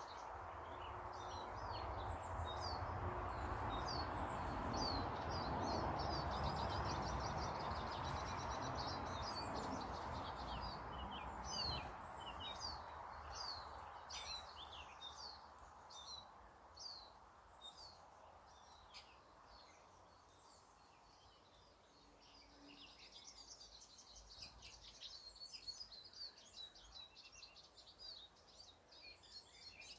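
Several small garden birds chirping and trilling. Under the birds, a broad rushing noise with a low rumble swells over the first few seconds and fades away by about halfway through.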